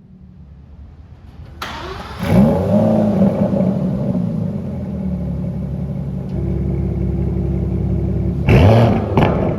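Aston Martin DBS Superleggera's 5.2-litre twin-turbo V12 starting: it catches with a quick rev flare that falls back to a steady idle, then a sharp throttle blip near the end.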